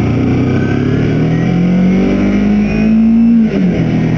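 2008 Kawasaki Ninja 250R's parallel-twin engine pulling under acceleration, its pitch rising steadily for about three seconds, then dropping quickly near the end before starting to climb again.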